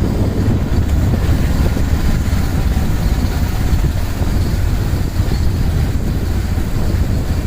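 Motorcycle on the move: a steady low engine rumble mixed with wind buffeting the microphone.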